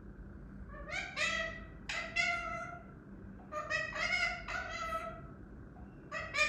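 Talking parrot giving a string of meow-like, cat-imitating calls, short pitched cries coming in three bursts with pauses between.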